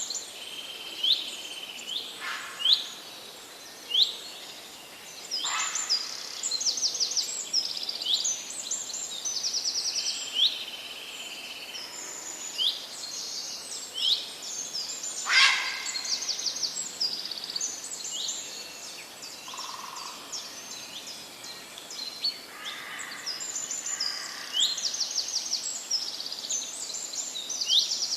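Several songbirds chirping and singing at once, with overlapping short sweeping whistles and quick rapid trills, over a steady background hiss.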